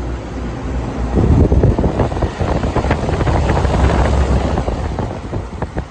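Air conditioners running: a steady low hum under a rough rush of fan air that buffets the microphone, growing louder about a second in.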